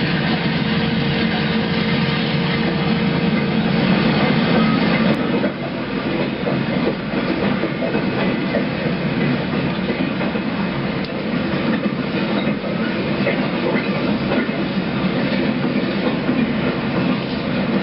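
Diesel locomotive sound from an HO scale SD9 model running steadily while working cars, with a slight drop in loudness about five seconds in.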